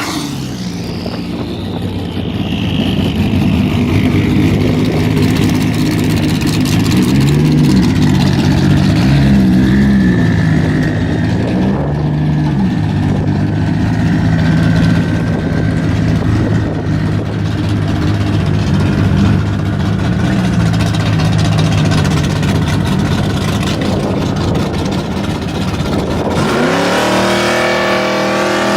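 Turbocharged 2JZ straight-six in a drag-built Nissan 240SX running at a loud, lumpy idle, its pitch wavering a little with small throttle changes. The revs climb sharply near the end.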